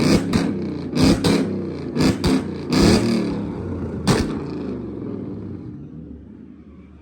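Modified car engine revving with loud exhaust pops and cracks, about a dozen sharp bangs in the first four seconds, the last one a little after four seconds in; the engine sound then fades away.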